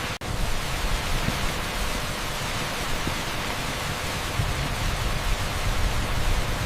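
Torrential rain pouring onto an asphalt street: a steady, dense hiss with a deep rumble underneath. It cuts out for an instant just after the start.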